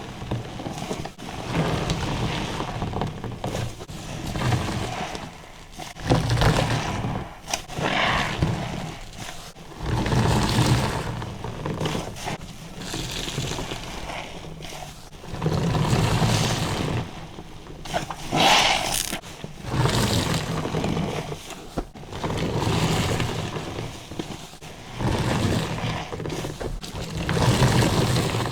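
A soapy car wash sponge full of body-soap lather being squeezed over and over, giving wet squelching and foamy crackling with each squeeze, roughly every two seconds.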